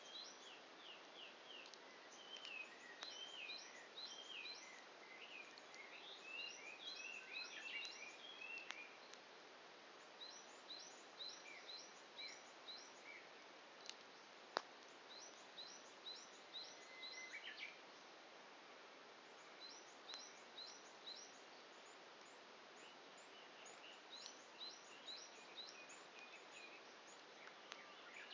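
Faint birdsong: bursts of short high chirps repeated in quick series, over a soft steady background hiss. A single sharp pop from the burning wood fire comes about halfway through.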